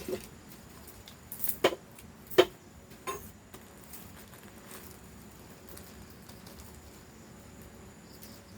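A handful of sharp knocks or taps in the first few seconds, the loudest about two and a half seconds in, then a quiet background.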